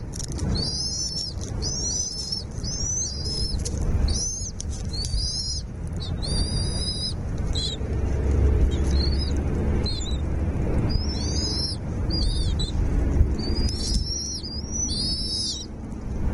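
Small bird calling over and over in short, high, arched notes, several a second at times, stopping shortly before the end. A low rumble runs underneath.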